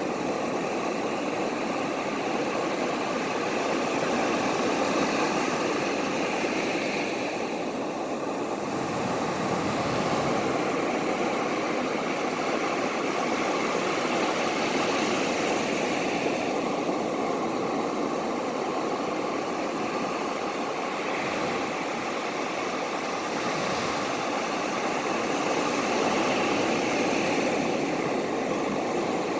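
Ocean surf: a steady rushing wash of waves that swells and eases gently every few seconds.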